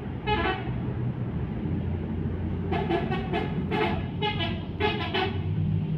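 A vehicle horn gives one short toot, then from about halfway in sounds a quick rhythmic run of about eight short toots, over the steady low rumble of passing heavy traffic.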